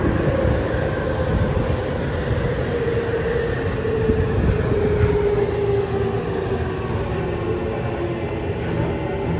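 Tokyu 5050 series electric train running, heard from motor car DeHa 5665: a steady rumble of wheels on rail under the whine of the inverter and traction motors. The whine falls slowly in pitch as the train slows.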